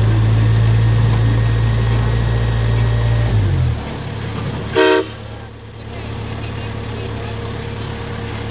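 The excursion train's engine idling with a steady low hum that drops lower a little past three seconds in. About five seconds in, the train's whistle gives one short toot.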